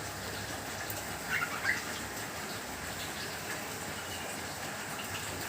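Steady rain hiss with small caged birds giving a few short chirps, the loudest cluster about a second and a half in.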